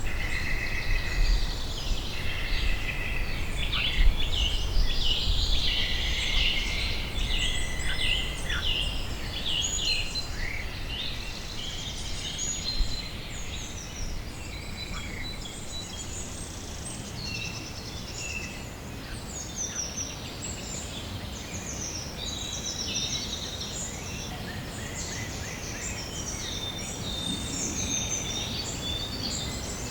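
Many small songbirds chirping and trilling together in a dense, overlapping chorus of short high calls and quick falling notes, over a low background rumble that is strongest in the first few seconds.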